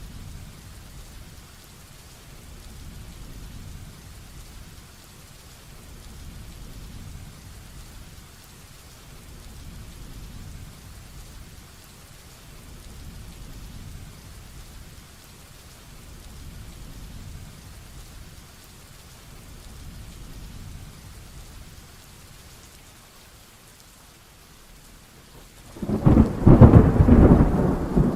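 Heavy rain falling steadily, with a low rumble that swells and fades every few seconds. About 26 seconds in, a loud thunderclap breaks in and keeps rolling.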